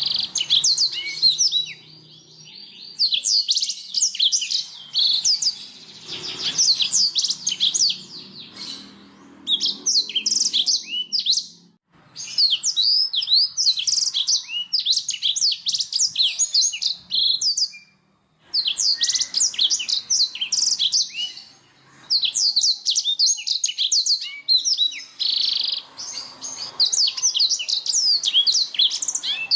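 Domestic canary singing: long phrases of rapid, high trilled chirps, broken twice by brief pauses.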